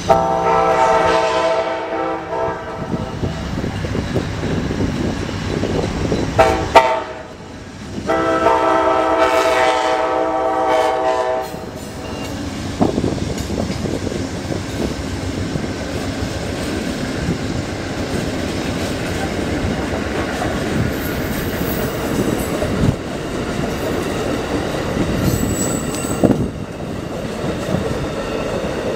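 Amtrak Silver Star passenger train at a level crossing: the diesel locomotive's horn sounds a long blast, a short one, then another long blast. After that comes the steady rumble and clatter of the passenger cars' wheels rolling over the crossing.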